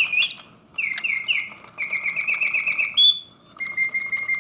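Vintage Reuge double singing bird cage's bellows-driven whistle producing mechanical birdsong: a falling chirp, a few swooping chirps, a fast trill and a short rising note, then a long steady whistle in the last second, with faint ticking from the clockwork mechanism.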